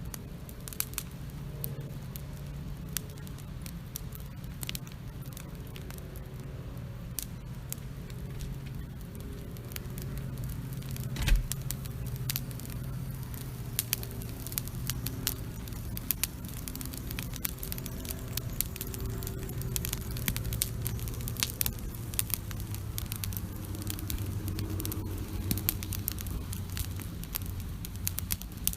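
Wood campfire crackling, with frequent sharp pops and snaps, over a steady low rumble. One louder knock about eleven seconds in.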